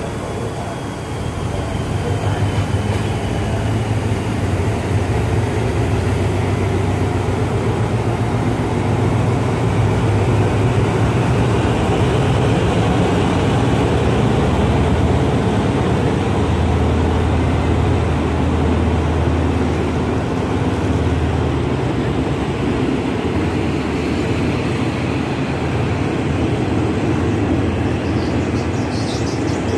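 State Railway of Thailand passenger carriages rolling past on the track as the train pulls out, a loud, steady rumble of wheels and running gear that builds over the first couple of seconds and then holds.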